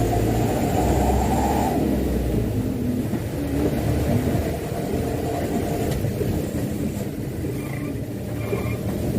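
Mitsubishi Canter dump truck's diesel engine and drivetrain running on the road with a steady low rumble, hauling a heavy load of rain-soaked sand.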